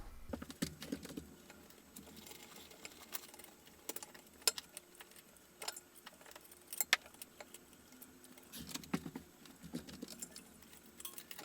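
Scattered light metallic clicks and clinks of small ceiling-fan hardware and tools being handled during removal, with a few sharper clicks in the middle.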